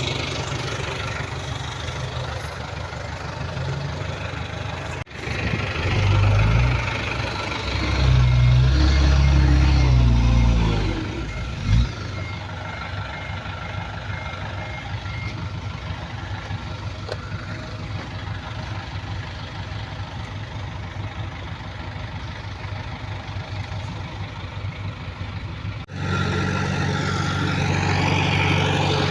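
Heavy construction machinery's diesel engine running, working harder and louder from about six to eleven seconds in, with a faint repeating reversing beep over it for several seconds. The sound cuts abruptly twice, about five seconds in and near the end.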